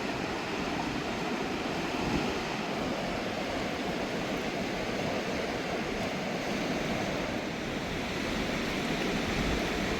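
Mountain river rushing over rocks, a steady, even wash of water noise.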